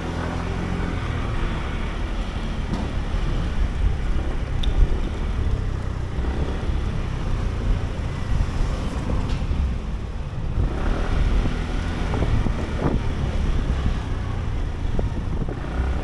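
Sym Jet X 125 scooter on the move in city traffic: a steady low engine and road rumble with wind noise and the sound of surrounding traffic.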